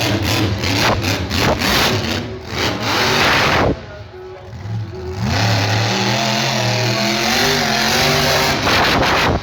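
Monster truck engine revving hard, easing off briefly about four seconds in, then climbing and dropping in pitch as the throttle is worked.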